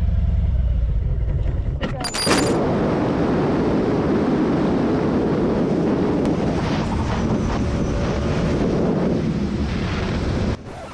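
Motorcycle engine idling with a low rumble. About two seconds in a sharp click is followed by a steady rush of wind noise on the microphone.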